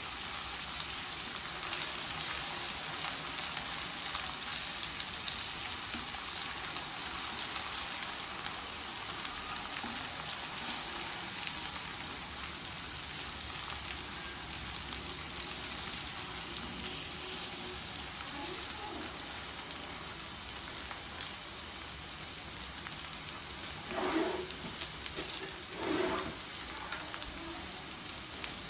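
Chopped onion and ginger-garlic paste sizzling in hot oil in a nonstick frying pan as they are stirred and fried with a plastic spatula. There is a steady hiss throughout, with two brief louder sounds near the end.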